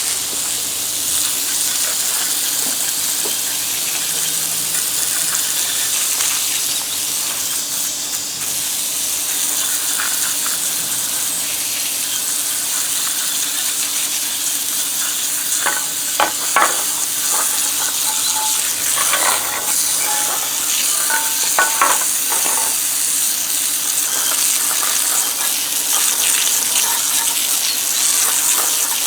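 Steady hiss, like spraying or rushing water or air, with a few short clicks and knocks partway through.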